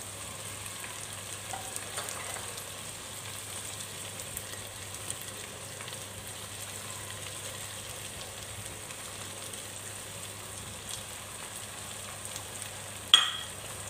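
Chopped onions and tomatoes sizzling steadily in hot oil in a frying pan as masala spices are added. A single sharp knock sounds about a second before the end.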